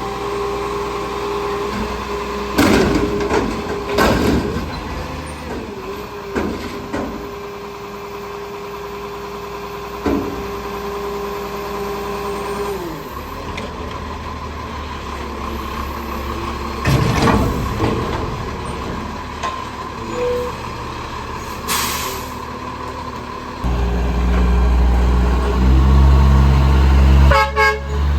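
Garbage truck at work: its engine runs under a steady whine for about the first half, with several loud bangs along the way. Near the end the engine gets much louder.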